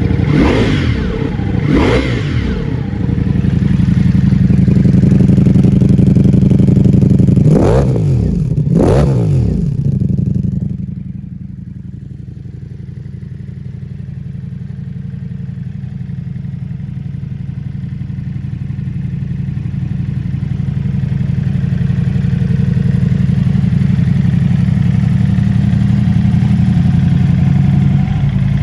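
Ducati Multistrada V4S's 1158 cc V4 engine idling through a full Akrapovic exhaust system, blipped four times: twice right at the start and twice about eight seconds in, each rev rising and falling quickly. After the blips the idle drops quieter, then slowly grows louder again.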